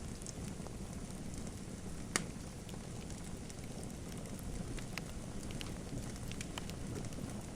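Wood fire burning in a fireplace: a steady low rumble of flames with scattered crackles and pops, one sharper pop about two seconds in.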